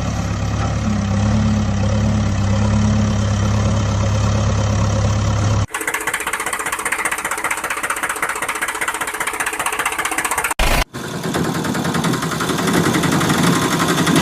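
Vehicle engine running, in three abruptly cut segments: a steady low hum at first, then a brighter rattling engine sound from about six seconds in, broken briefly near eleven seconds.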